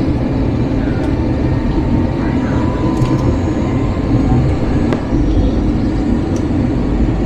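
Steady low rumble of cabin noise inside an Airbus A321 airliner, with a few faint clicks from the cabin.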